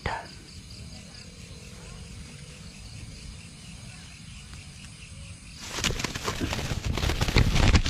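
Night insects chirping steadily, then about six seconds in a sudden loud rustling and crackling of vegetation with footsteps as someone pushes hurriedly through the plants.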